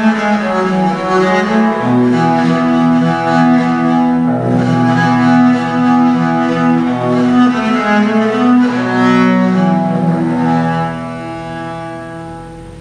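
Viola da gamba playing slow bowed notes and chords over a low sustained line. The closing chord rings and dies away near the end.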